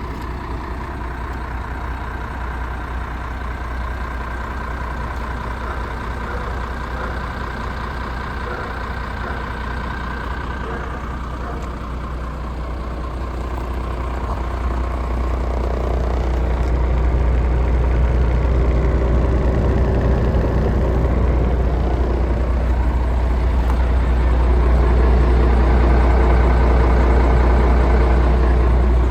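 MAN TGX 26.470's 470 hp Euro 6 diesel engine idling steadily. It grows louder about halfway through and stays louder.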